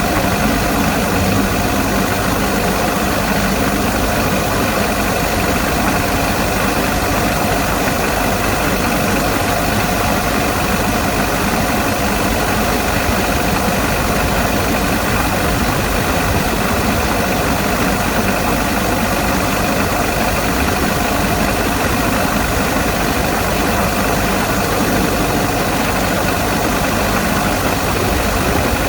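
Perkins diesel engine idling steadily.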